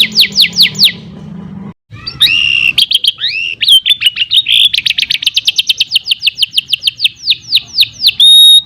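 Domestic canary singing loudly: a run of quick falling whistled notes, a brief break, then a varied phrase that speeds into a fast rolling trill of many short notes. The trill slows into sweeping notes and a held whistle near the end.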